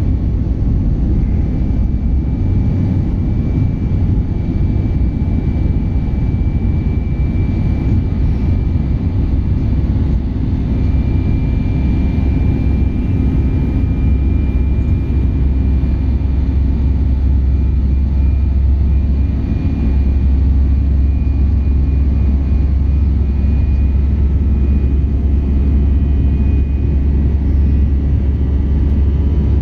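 Steady cabin drone of an Airbus A319-111 in flight: its CFM56 turbofans and the airflow over the fuselage, heard from inside the cabin. It is a deep rumble that grows stronger about two-thirds of the way through, with a faint thin high whine above it.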